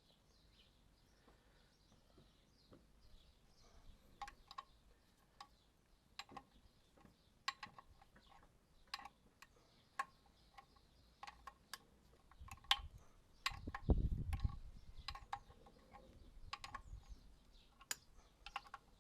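Metal spanner clicking and clinking on the wear-pad bolts of a mini digger's track frame as they are nipped up tight, in sharp, irregular clicks with a short metallic ring. A brief low rumble comes about two-thirds of the way through.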